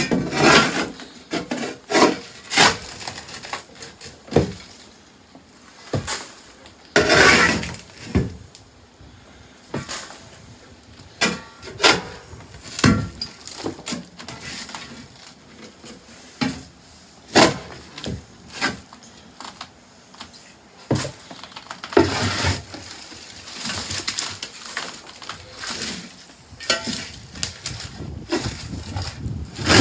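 Wood being broken and pried out by hand: irregular knocks, cracks and scrapes, with a longer stretch of scraping about seven seconds in and again around twenty-two seconds in.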